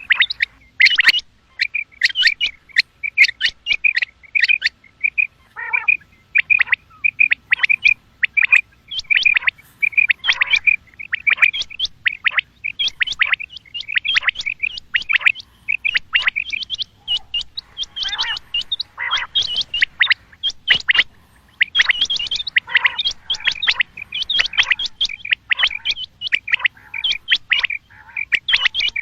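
Female common quail (batair) calling: a rapid, continuous string of short, high chirping notes in clusters.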